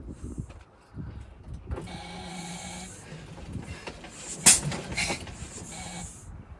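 The one-cylinder engine of a 1901 Curved Dash Oldsmobile being cranked over by hand with its side crank, giving mechanical clunks and stretches of whirring, with one sharp clack about four and a half seconds in.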